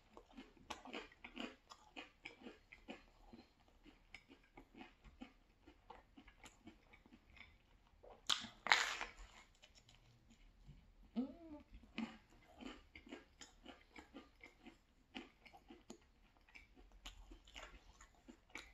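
Close-miked chewing of a thin-crust pizza slice: a steady run of small wet clicks and crackles, with a louder crunching bite about eight seconds in.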